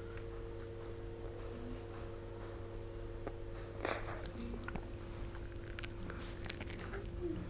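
Close-miked chewing and biting of a crisp toasted sandwich: small crunches and mouth clicks, with one louder crunch about four seconds in. A steady hum runs underneath.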